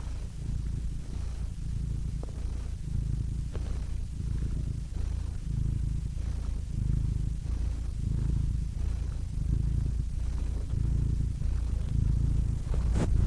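Domestic cat purring close to the microphone: a low, steady rumble that swells and eases every second or so, with a short click near the end.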